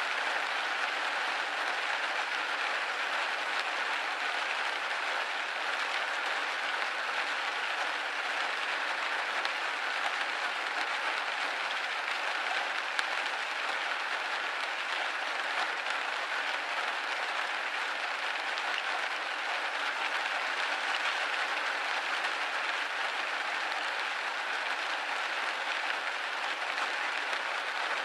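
Rain pattering steadily on a window pane, a dense even hiss of drops with no low rumble.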